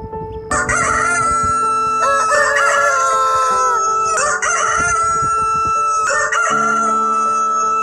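Rooster crowing several times in a row, long drawn-out crows that start abruptly and hold a steady high note, over background music.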